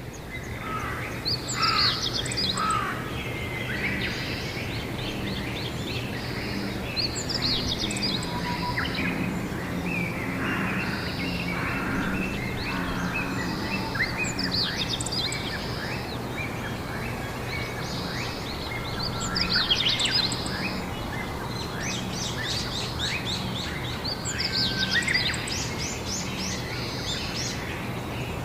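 Several songbirds chirping and trilling, with rapid runs of notes about 20 and 25 seconds in. A steady low hum runs underneath.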